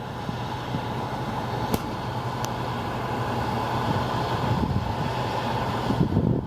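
New Holland TX62 combine harvester running steadily as it threshes wheat: a constant engine and machinery drone. Two brief faint clicks come about two seconds in.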